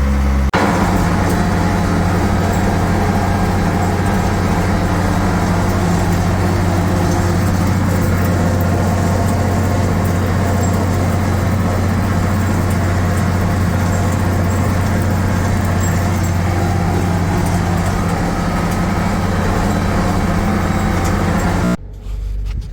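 International 1066 tractor's turbocharged six-cylinder diesel running steadily under the skidding work. Its note steps up slightly about half a second in, and the sound cuts off abruptly near the end.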